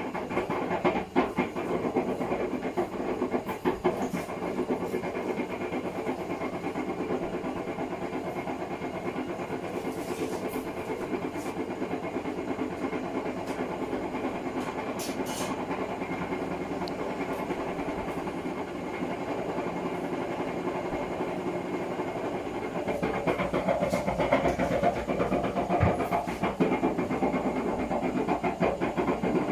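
Hotpoint WMFUG942 washing machine running with a box of dog food tumbling in the drum: a steady churning noise with a few knocks in the first few seconds, growing louder about 23 seconds in.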